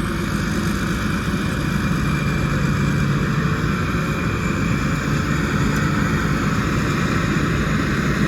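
Rice combine harvester running steadily: a constant diesel engine drone with machinery noise and no change in pace.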